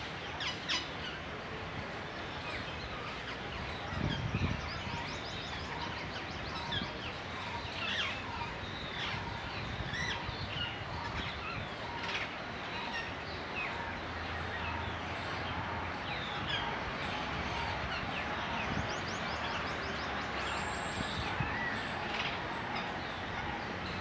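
Birds chirping and calling in the trees: short scattered chirps and a few quick trills over steady outdoor background noise, with a brief low rumble about four seconds in.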